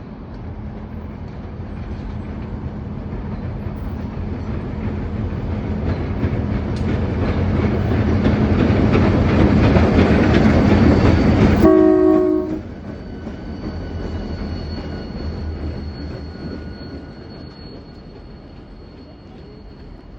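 Diesel switching locomotives rumble past, growing louder for about ten seconds and then dropping away suddenly. A short horn toot follows just after the drop, and the rumble then fades with a faint high steady ring above it.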